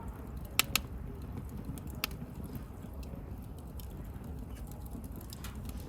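Wood bonfire crackling: a few sharp pops and snaps, two close together about half a second in and another about two seconds in, over a low steady rumble of the burning fire.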